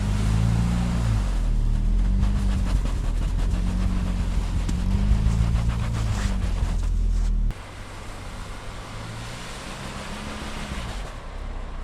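Off-road SUV engine revving up and down repeatedly under load in soft ground. The loud low engine note drops away suddenly about seven and a half seconds in, leaving a quieter engine still running with smaller rises and falls.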